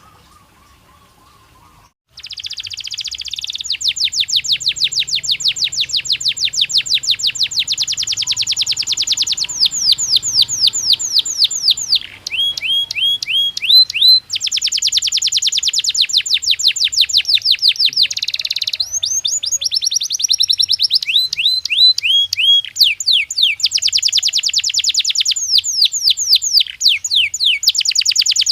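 Canary singing a long song of fast trills, starting about two seconds in. It switches between rapid even rolls and slower swooping notes, with a few brief breaks.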